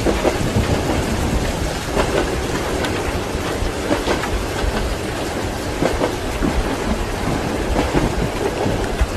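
A moving train carriage rumbling, with the clack of its wheels over the rail joints now and then, mixed with the steady hiss of rain.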